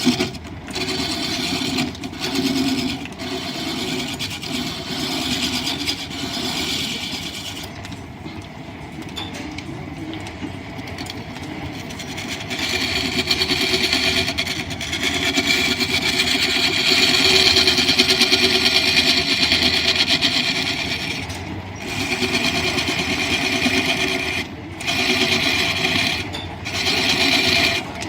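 Wood lathe driven from an overhead line shaft, with a turning tool cutting into the spinning wood in spells of several seconds, the longest in the middle, broken by short pauses, over the steady running of the shafting and belts.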